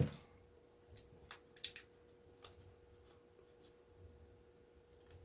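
Scattered faint clicks and scrapes of small metal and plastic scrap parts being handled and pulled apart by hand, over a faint steady hum.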